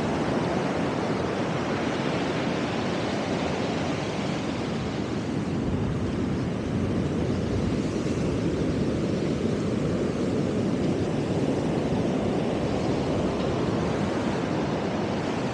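Ocean surf breaking and washing onto a sandy beach in strong wind, a steady rush of noise that swells and eases slightly, with wind on the microphone.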